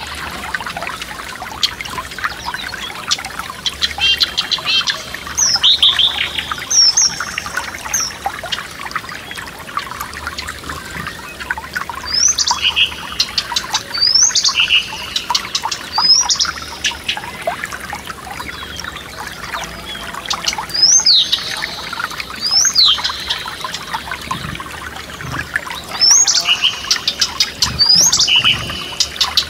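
A forest stream babbling steadily over stones, with songbirds singing. The birds give short, sharply sweeping phrases in bursts every few seconds.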